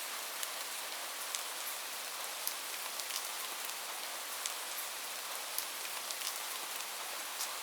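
Steady rain falling: a dense, even hiss with many sharp drop ticks scattered through it.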